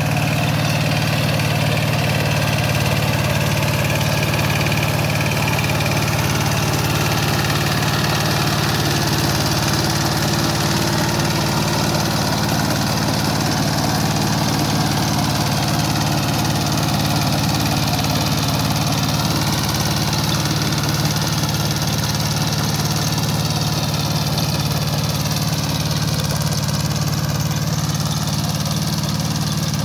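Kubota K700 power tiller's single-cylinder diesel engine running steadily at an even speed.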